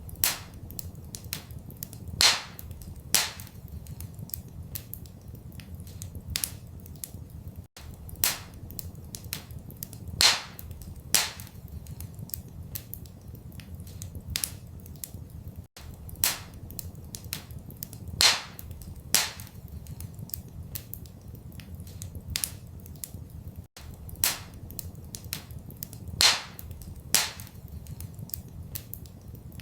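Wood fire crackling in a fireplace: irregular small crackles and sharper pops over a low steady rumble. The same run of pops recurs about every eight seconds, as a loop.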